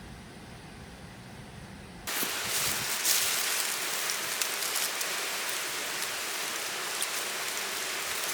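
Mountain stream rushing, a steady hiss of flowing water with a few light ticks. For about the first two seconds there is only a low, quiet rumble, cut off abruptly when the water sound begins.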